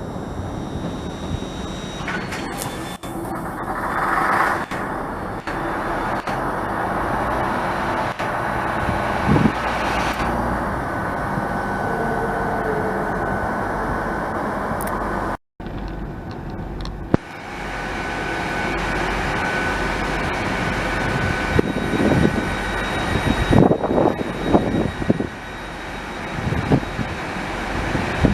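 Trains at a station platform: a steady drone of running engines and machinery with a faint steady whine, then, after a cut about halfway through, more engine noise with several short low rumbles near the end.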